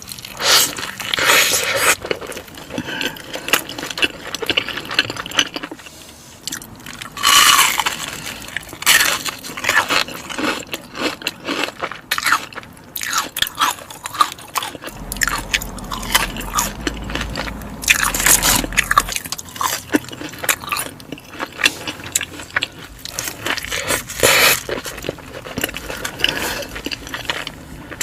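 Close-miked person eating a burger and fries, chewing with irregular crisp crunches and several louder bites.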